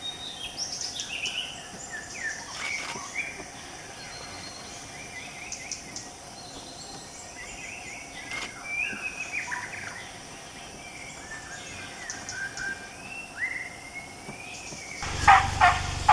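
Forest birds chirping and whistling in short gliding calls over a steady faint high hum. About a second before the end, a sudden loud noisy burst with a low rumble cuts in.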